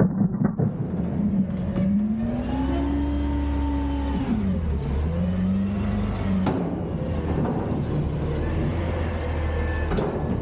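Garbage truck engine revving up and down, its pitch climbing, dropping sharply partway through, then rising again and holding, with a couple of sharp knocks later on.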